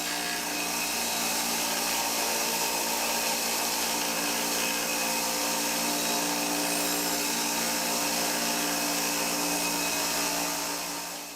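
Electric power tool running steadily at constant speed, a loud hiss over a steady hum, winding down and stopping near the end.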